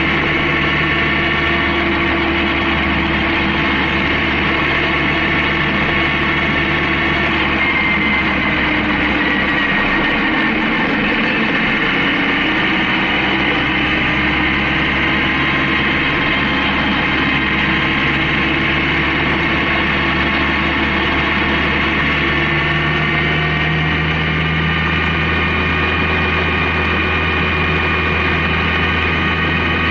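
Honda CB750K's air-cooled inline-four engine running at a steady cruise, its pitch drifting slowly up and down with road speed.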